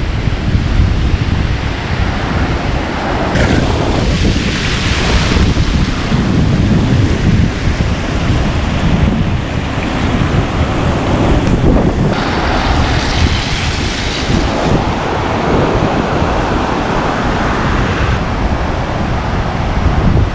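Wind buffeting the microphone with ocean surf washing in; the rush of water swells twice, about three seconds in and again around twelve seconds.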